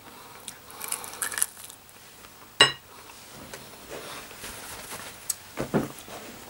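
A man chewing a chicken wing close to the microphone, making soft crackling mouth sounds. A short sharp click comes about two and a half seconds in, and a brief low hum near the end.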